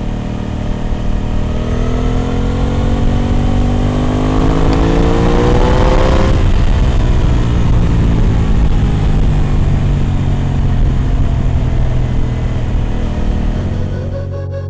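Aprilia RS 660 Extrema's parallel-twin engine through an SC Project exhaust, under way on the road. It pulls up through the revs for several seconds, the revs drop suddenly about six seconds in, and it carries on at lower, steadier revs that ease slowly.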